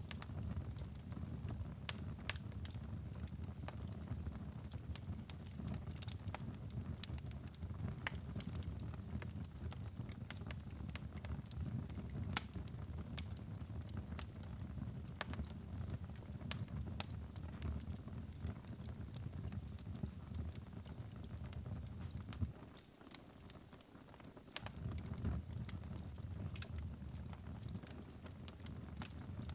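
Wood fire burning in a fireplace: scattered sharp crackles and pops over a low, steady rumble of the flames. The rumble eases off for a couple of seconds about three-quarters of the way in.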